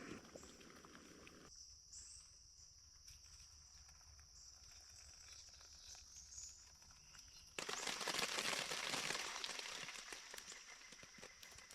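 Insects singing in a steady high chorus, with a few short high chirps over it. About seven and a half seconds in, a loud rush of noise starts suddenly and fades away over the next few seconds.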